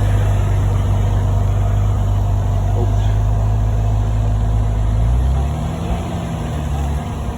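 Ferrari Testarossa's flat-twelve engine idling with a steady low drone; about five seconds in the drone drops away and the engine note rises and falls as it is given a little throttle.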